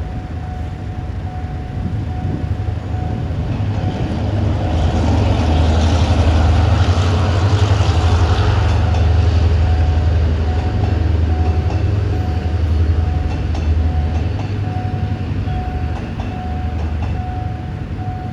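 Train passing a level crossing: a low rumble with rolling rail noise that builds to a peak around the middle and then eases. A steady high tone sounds throughout and turns into regular pulses in the second half.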